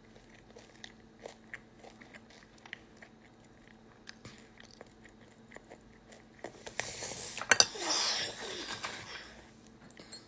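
A person chewing and biting food close to a phone microphone, with small scattered clicks. About seven seconds in there is a louder, noisier stretch with two sharp clicks.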